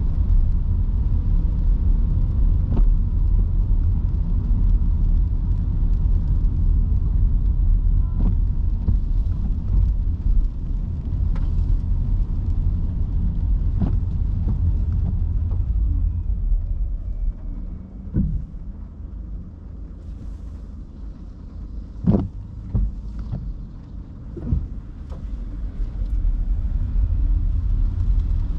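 Electric car's tyre and road noise on a wet road, a steady low rumble that eases off for several seconds past the middle and then returns. Scattered sharp knocks sound through it, the loudest during the quieter stretch.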